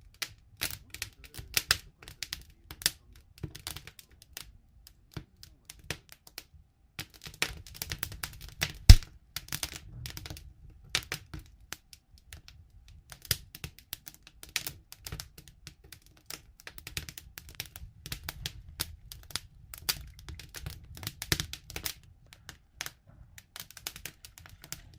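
Wood campfire crackling with irregular sharp pops over a soft low rumble of the flames, one much louder crack about nine seconds in.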